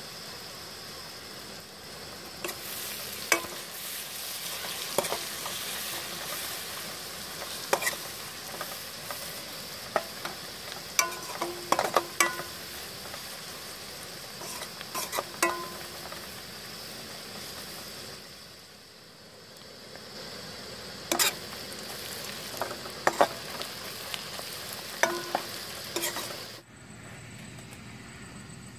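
Sliced onions and spices sizzling in hot oil in an aluminium kadai, with a steel ladle clinking and scraping against the pan in irregular strokes as it stirs. The sizzle cuts off suddenly near the end.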